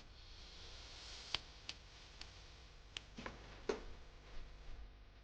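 Wood fire crackling in a campfire stand: faint, irregular sharp pops and ticks, about eight or nine in all, with a soft hiss over the first two seconds.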